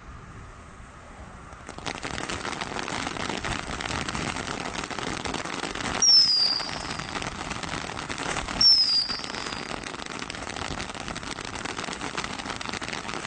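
A firework burning with a continuous dense crackle from about two seconds in. Two louder pops, about two and a half seconds apart, each carry a short falling whistle.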